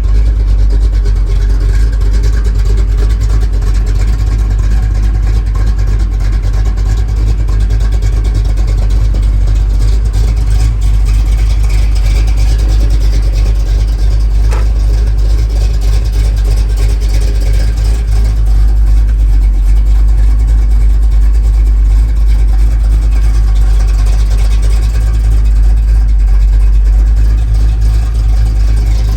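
1975 Chevy C10 Cheyenne pickup's engine running steadily with a loud, even low rumble.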